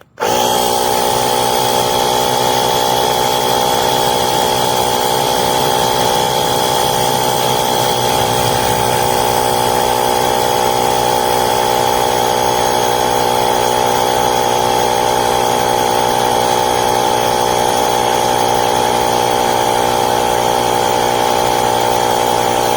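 Portable jump starter's built-in electric air compressor switching on and running steadily, with a constant whine, as it inflates a car tyre from 29 toward a set 34 psi.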